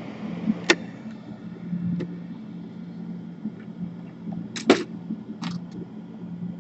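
A steady low hum, with a few sharp clicks and taps of laptop parts and tools being handled on the bench: one about a second in and a louder pair a little past the middle.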